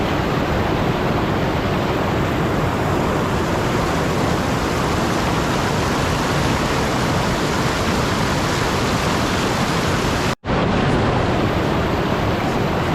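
Steady, even rushing noise with no distinct sounds in it, cutting out for an instant about ten seconds in.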